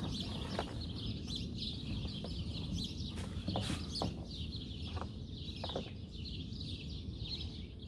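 Chickens clucking and small birds chirping throughout, with a few light clicks scattered through.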